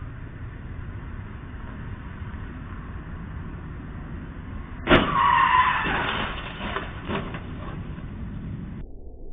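Car and truck colliding: a sudden loud crash about five seconds in, followed by a second or so of crunching and scraping with a brief screech, then a few more knocks as the wreck settles, over steady traffic noise.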